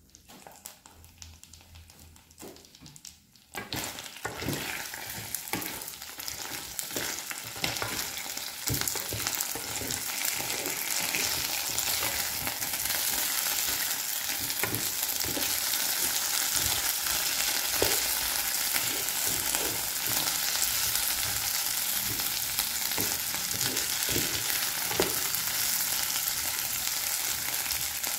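Shrimp and garlic sizzling in a small electric cooking pot, with a spatula scraping and stirring them around the pot. The sizzle starts suddenly a few seconds in and then stays steady.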